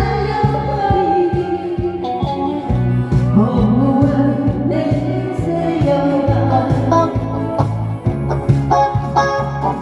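A singer performing a Korean trot song over a band accompaniment with a steady bass line and guitar.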